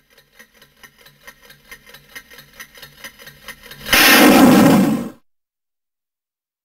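Fast, even ticking, about four ticks a second, growing louder, then a loud explosion sound effect about four seconds in that lasts just over a second and cuts off suddenly.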